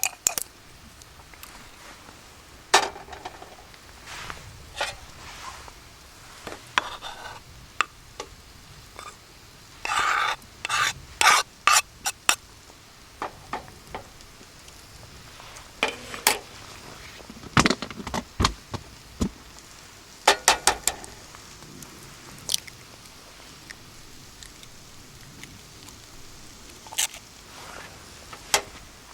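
Cooking utensils knocking, clinking and scraping against cookware in irregular clusters of sharp strikes, over a faint steady background.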